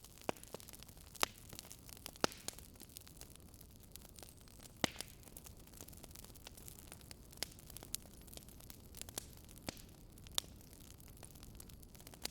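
Wood fire crackling: sharp pops at uneven intervals, a few louder ones standing out, over a steady soft hiss.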